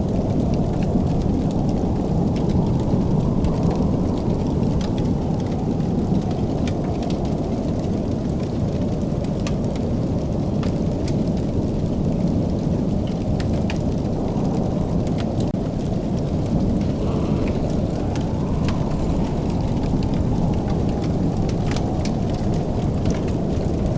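Fire in a fireplace crackling: a steady low rumble of burning with scattered sharp pops and snaps throughout.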